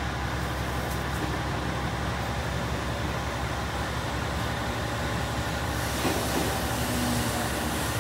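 A two-car train pulling into the station platform: a steady low hum throughout, with the rushing noise of the approaching train growing from about six seconds in.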